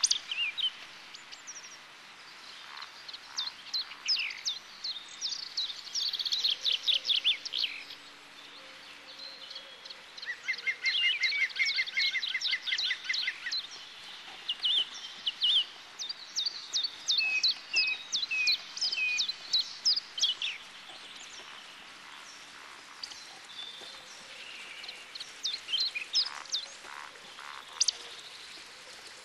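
Songbirds singing: many quick chirps and short whistled phrases in bursts, with a fast, even trill about a third of the way through.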